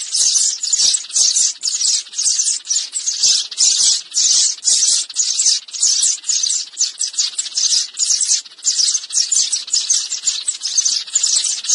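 Sparrows chirping in a dense, unbroken chatter, about three or four sharp chirps a second: a sparrow-call lure recording.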